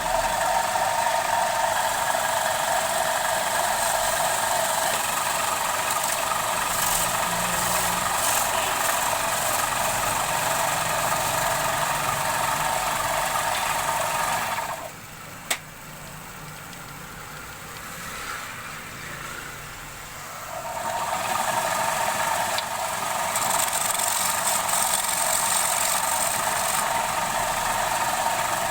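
Wood lathe running with a tool working the spinning wood of a bowl blank, a steady noise. The tool noise drops away for about six seconds just past the middle, with one sharp click, then comes back.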